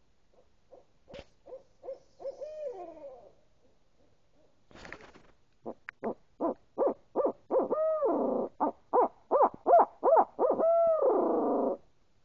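Owl hoots: a run of quick, evenly spaced hoots ending in a drawn-out call that arches up and falls away. After a pause comes a longer, louder run of rapid hoots with two more long, falling calls, which stops shortly before the end.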